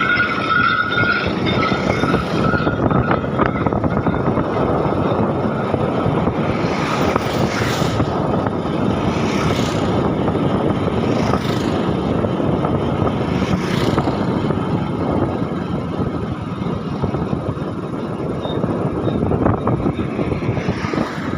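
Steady running noise of a moving vehicle, a continuous rush with no clear rhythm.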